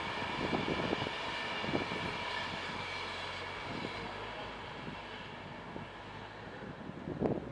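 Class 390 Pendolino electric train passing at speed: a steady rushing with a high electric whine that fades over the last few seconds, and a few sharp knocks from the wheels.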